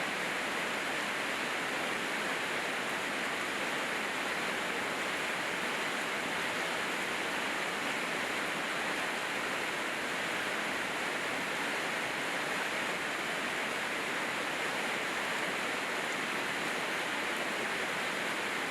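Steady rainfall: an even, unbroken hiss with no single drops or other events standing out.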